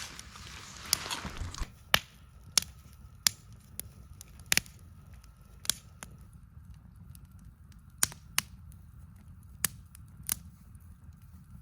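Campfire crackling, with a dozen or so sharp, irregularly spaced pops over a low background rumble.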